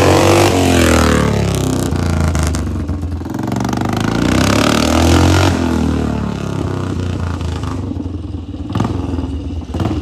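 Motorcycle engine being revved: its pitch falls away from a rev at the start, climbs to a second rev about five seconds in, then drops back and settles lower.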